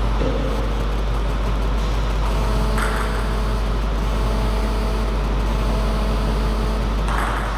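Steady low hum with an even background rumble, like the machinery noise of a large hall.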